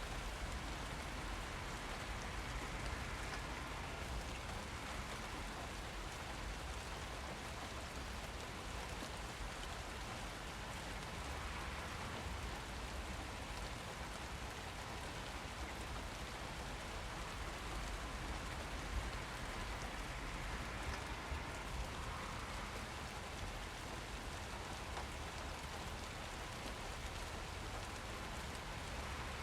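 Steady rain falling on surfaces, an even hiss of many drops with occasional small louder patters.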